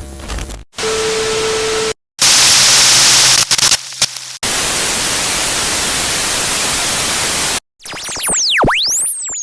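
A run of separate TV-static and white-noise sound effects with short gaps between them. One has a steady low beep under the hiss, and the longest is a plain static hiss of about three seconds. Near the end, a cluster of electronic tones swoops up and down, crossing each other.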